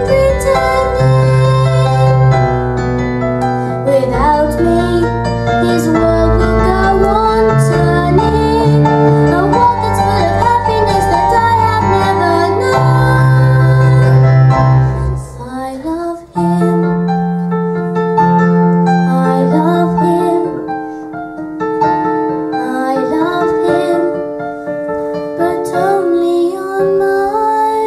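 A girl singing a song over a piano or keyboard accompaniment. The bass of the accompaniment drops out about halfway through, leaving a lighter backing under the voice.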